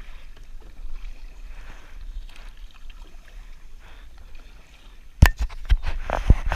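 Kayak paddling on a river: soft water swishing around the paddle and hull, then a few sharp knocks with splashes in the last second and a half.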